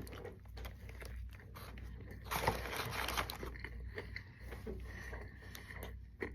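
Close-up chewing of a bite of crispy fried chicken sandwich: small crunches and mouth clicks, busiest about halfway through, over a steady low hum.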